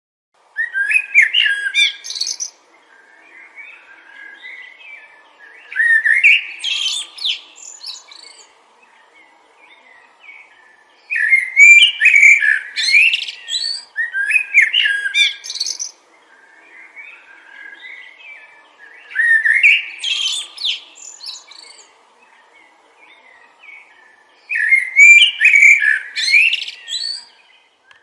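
Songbird singing: loud, quick, warbling phrases of about two seconds, repeated six times at intervals of about five seconds, with softer chirping between them.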